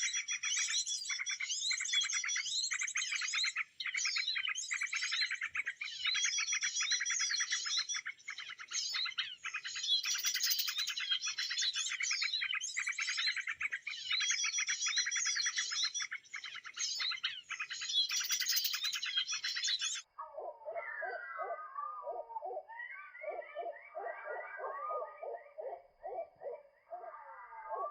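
Birds calling: a dense run of rapid, high-pitched chirping notes that cuts off suddenly about twenty seconds in and gives way to lower-pitched, quickly repeated calls.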